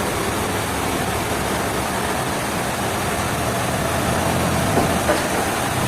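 Heavy engine-driven machinery running steadily, a constant low engine hum under an even rushing noise.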